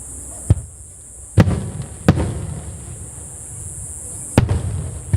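Aerial firework shells bursting: about five sharp bangs at irregular intervals, the loudest each trailing off in a low rumble.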